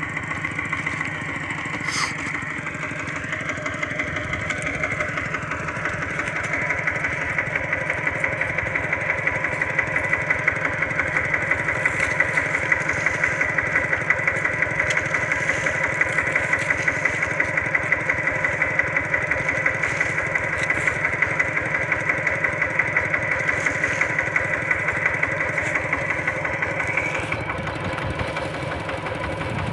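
Kubota walking tractor's single-cylinder diesel engine running steadily with an even, rapid firing beat, growing a little louder several seconds in.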